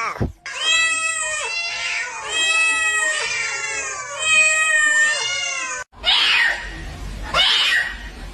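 Domestic cat yowling: one long, drawn-out caterwaul whose pitch wavers up and down for about five seconds. It cuts off suddenly and is followed by two short, rougher cries about a second apart.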